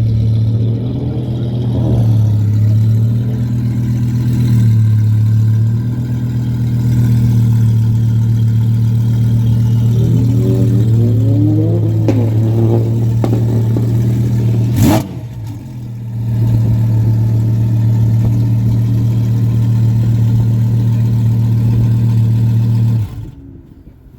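Twin-turbo 5.2-litre V10 of a Lamborghini Huracan EVO idling steadily with a deep, even note. There is a sharp click about fifteen seconds in, and the sound drops away near the end.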